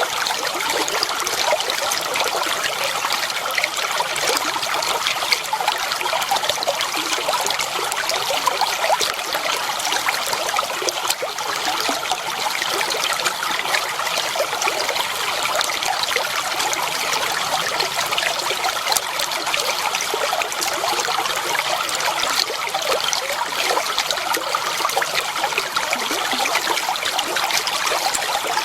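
Water flowing and trickling steadily, a continuous babbling splash with fine bubbling detail.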